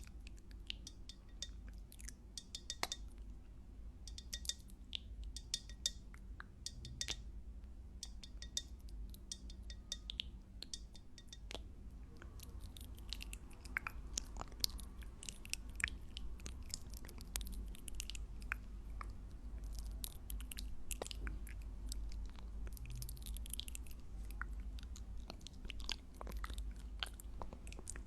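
Close-miked ASMR chewing: a stream of sharp, wet clicks and pops from the mouth, sparse at first and denser from about halfway through.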